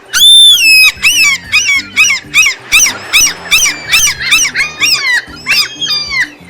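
A gull giving its long call: one long note, then a rapid series of short falling calls, about four a second, over low background music.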